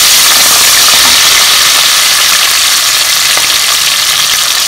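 Shallots, whole green chillies and whole spices sizzling steadily in hot oil and ghee, a constant loud hiss of frying.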